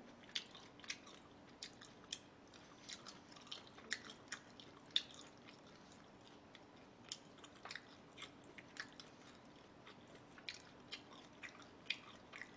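A person chewing food, with soft, irregular wet clicks and smacks of the mouth scattered through, a few a second at most.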